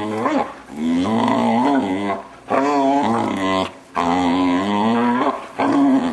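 A six-month-old Vizsla making drawn-out, wavering vocal noises, about five in a row, each around a second long with short gaps between.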